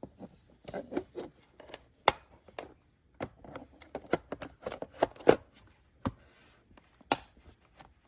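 Hands handling hard plastic parts close up: an irregular run of clicks, taps and light knocks with short rustles between them, the sharpest taps about two seconds in, around five seconds and near the end.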